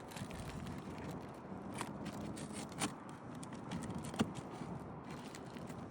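A tool scraping and clicking under a three-tab asphalt shingle as it is worked loose from its seal and nails, with two sharper ticks near the middle.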